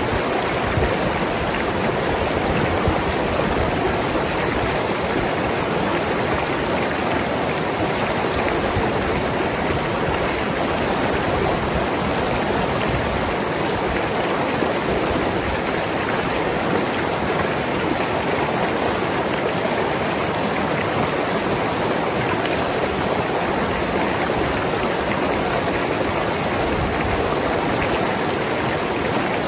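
Mountain river rushing and gurgling over rocks, a steady even wash of water noise.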